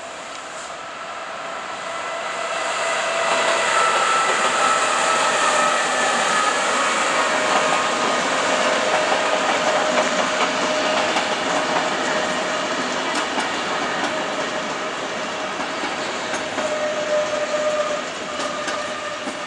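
A train moving past on the rails, growing louder over the first few seconds and then fading slowly, with clatter over the track and a steady high whine throughout.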